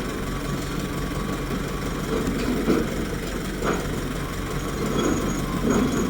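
An engine running steadily at idle, with a few faint knocks over the hum.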